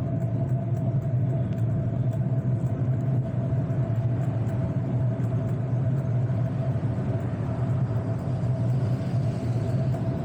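Steady low rumble with a constant hum, unchanging in level, from a bicycle rolling along a paved road.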